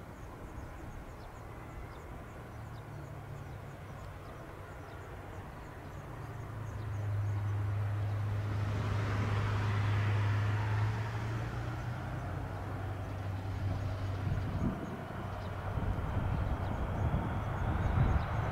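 Train passing by: a low, steady machine hum swells about seven seconds in, with a rush of running noise that peaks a few seconds later and then eases off.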